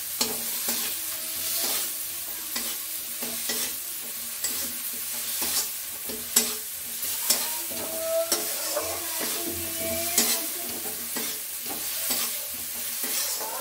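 A masala of onion, tomato and spices sizzling in oil in a kadhai while a steel spatula stirs and scrapes it. Frequent sharp clicks of the spatula against the pan cut through a steady sizzle.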